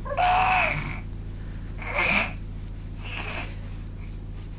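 Breathy, snorting vocal noises, three in a row: the first is the loudest and longest, and the last is the faintest.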